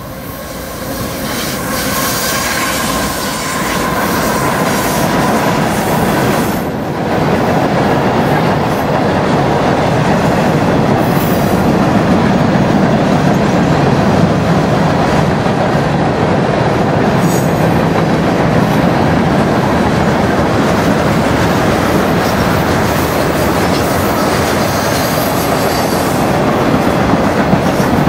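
CSX freight train passing close by, led by two GE ES44AC diesel locomotives. The sound builds over the first couple of seconds as the locomotives arrive. A long string of hoppers, boxcars and tank cars then rolls past with steady, loud wheel-on-rail noise.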